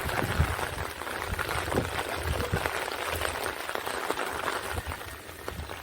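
Steady rain falling: an even hiss dotted with many small drop ticks, with occasional low thumps underneath.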